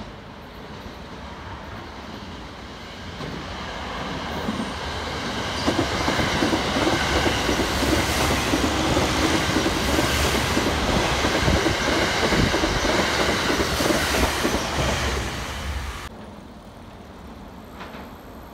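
Electric express train passing along the tracks below. Its sound builds over a few seconds, stays loud for about ten seconds, then drops away sharply near the end as the train clears.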